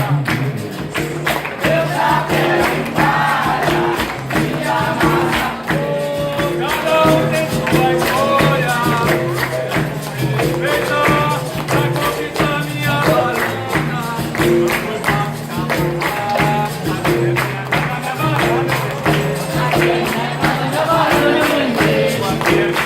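Live capoeira roda music: a pandeiro (tambourine) keeping a steady rhythm over sustained instrument tones, with singing.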